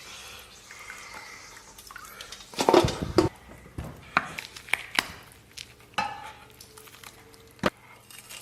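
Metal kitchen utensils and a cooking pot clanking: a loud clatter about three seconds in, then several separate sharp knocks and clinks.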